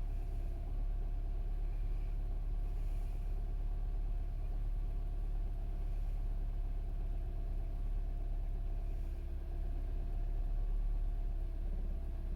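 2008 Mini Cooper S R56's turbocharged 1.6-litre four-cylinder idling roughly after a cold start, having sat two days in about 50°F weather. It is a steady low rumble with a faint steady whine over it. The cause of the rough idle is not known to the owner.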